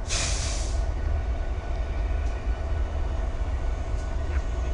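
Steady low rumble of diesel freight locomotives, with a short burst of hissing right at the start.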